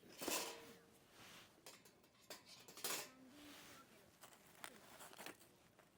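Scattered sharp clicks and light knocks of small hard objects being handled, two louder ones about 2.5 s apart.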